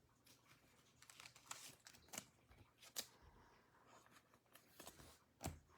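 Mostly near silence, with faint rustling and a few soft clicks as trading cards are handled and slid one behind another.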